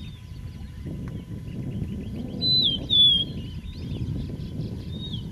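A bird singing: a fast trill of repeated notes ending in two loud, falling whistled notes about halfway through, then softer calls. Under it runs a steady low rumbling.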